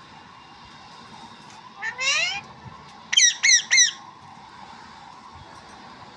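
Pet parrot calling: one rising call about two seconds in, then three short, loud squawks in quick succession, each falling in pitch.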